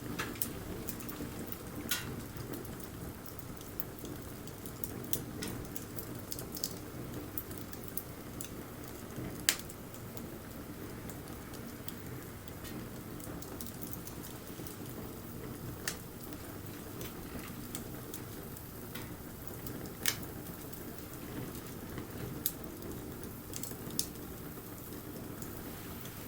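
Wood fire burning, with a steady low rush from the flames and scattered sharp crackles and pops from the burning wood. The loudest pops come about nine and a half seconds and twenty seconds in.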